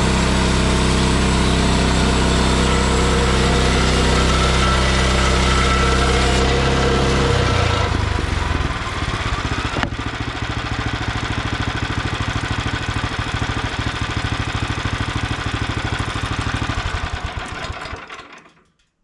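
Small gas engine of a Frontier OS23 bandsaw mill running at speed, dropping to a rougher, slower idle about eight seconds in, then shutting off near the end.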